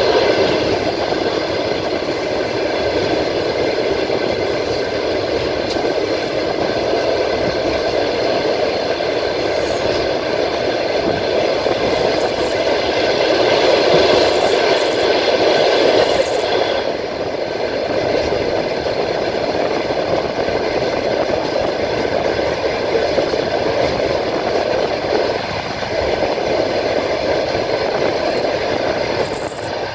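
Passenger train running at speed, heard from a carriage at the window: a steady rolling rumble of wheels on rail with a faint high whine over it, easing a little just past halfway.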